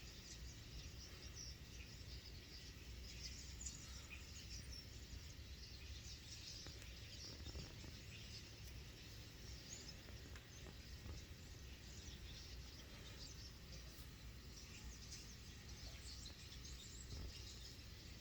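Faint, continuous chatter of many small birds chirping together, a flock's short overlapping calls, over a low steady background rumble.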